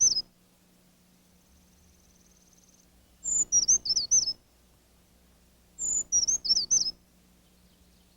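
A small songbird singing a short, high, thin phrase of quick notes, about a second long. It sings the phrase twice, a few seconds apart.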